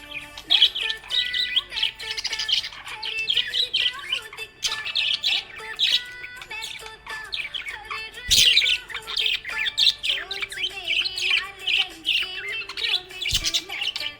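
Budgerigar chirping and warbling in a rapid, continuous chatter of high chirps, with a sharp click about eight seconds in.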